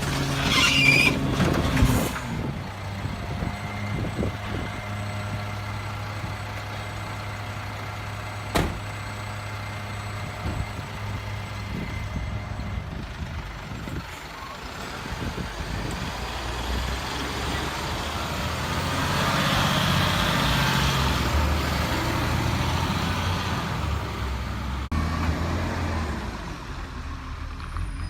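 Garbage truck's diesel engine running steadily, growing louder about two-thirds of the way through and then easing off, with one sharp clank about a third of the way in.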